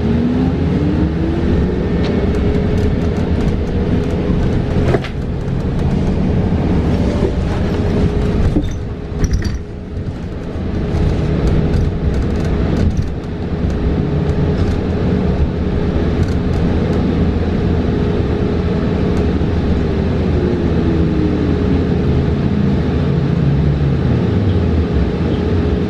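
New Flyer XE40 battery-electric bus's electric drive motor whining as the bus rides: the whine climbs in pitch for the first two or three seconds as it accelerates, holds a steady pitch while cruising, then falls away near the end as it slows. Road and cabin rattle noise with scattered clicks runs underneath.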